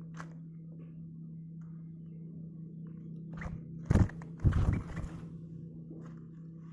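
A few short knocks and scrapes over a steady low hum, with a loud cluster of knocks about four seconds in.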